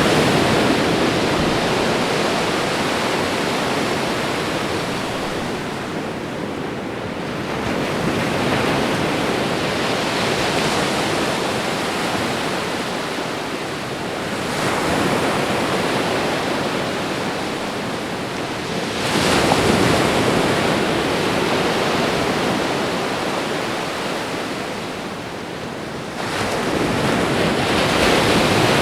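Ocean waves washing onto a shore, a steady rush of surf that swells and ebbs, with a new wave surging in roughly every five seconds.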